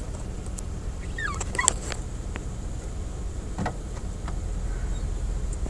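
Seagulls calling: a few short, wavering cries about a second in and another brief call past the middle, over a steady low rumble.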